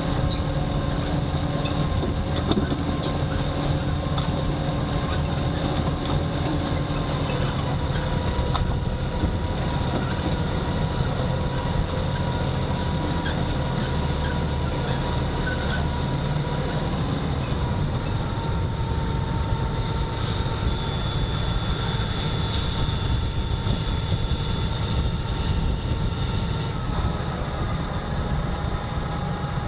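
Tractor engine running steadily, with a low rumble and a few whining tones that shift slightly in pitch now and then.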